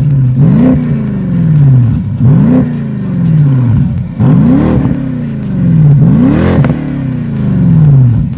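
BMW 650i V8 revved through a custom stainless steel exhaust with a custom silencer and twin 76 mm tips each side: four sharp blips of the throttle, each climbing quickly and then falling slowly back toward idle.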